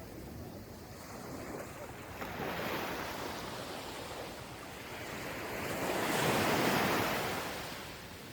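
Gentle ocean waves breaking and washing onto a beach: a hiss of surf that swells twice, the second and louder wave peaking about six to seven seconds in before fading.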